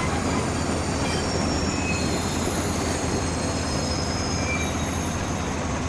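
Train rolling on the rails with a steady rumble, and short high-pitched wheel squeals here and there.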